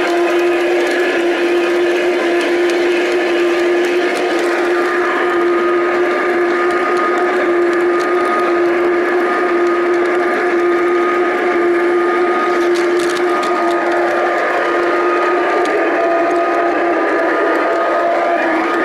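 Large-scale garden model train running on the track: a steady, unchanging whine over a rough rolling noise.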